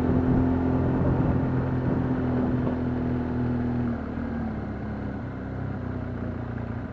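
Vehicle engine and road noise heard from inside the vehicle while driving, a steady hum whose pitch drops slightly and quietens about four seconds in as the engine eases off.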